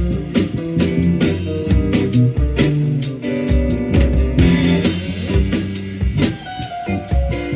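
A rock band playing, with guitar and a drum kit keeping a steady beat.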